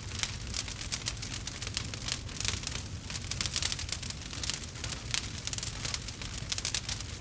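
Campfire crackling: a dense, irregular run of sharp pops and snaps over a low steady rumble.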